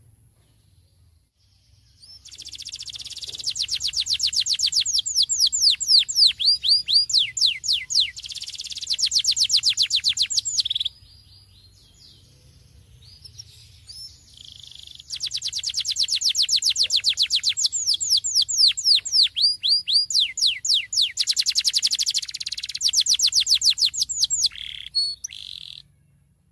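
Canary singing two long rolling song phrases, each about nine seconds of rapid, repeated down-slurred notes, with a pause of a few seconds between them.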